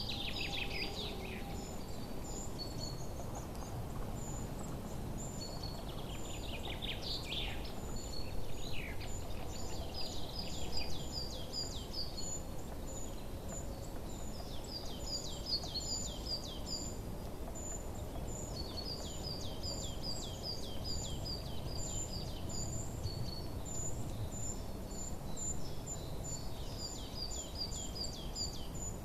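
Songbirds chirping in repeated runs of short, quick high notes over a steady low background rumble of outdoor ambience.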